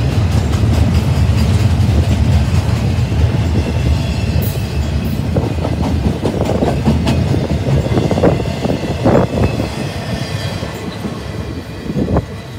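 Double-stack intermodal container train rolling past, its steel wheels clicking over the rails with a steady low rumble. The sound fades over the last few seconds as the final cars go by.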